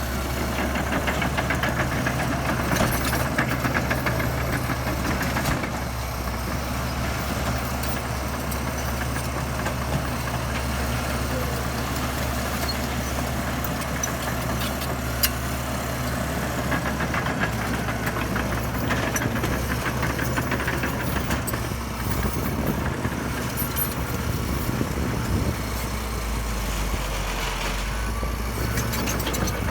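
Heavy diesel engine of earthmoving machinery running steadily, with mechanical rattle over a low drone. A single sharp click comes about halfway through.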